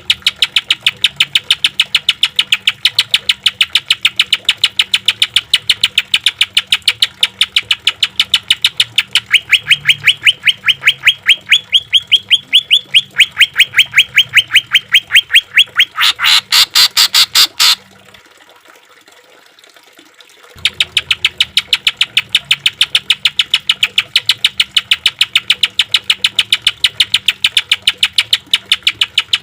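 Greater green leafbird (cucak ijo) giving a long rapid-fire run of sharp, repeated notes, several a second, each dropping in pitch. Past the middle comes a louder, denser burst, then a pause of a couple of seconds before the same run starts again.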